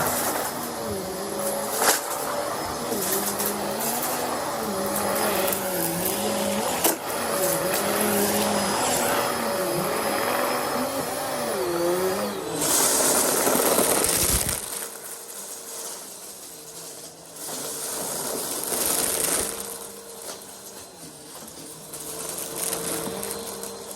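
Vacuum cleaner running during fast vacuuming, its motor pitch dipping and recovering again and again with the back-and-forth strokes. About halfway through there is a louder rushing stretch of about two seconds, after which it runs more quietly.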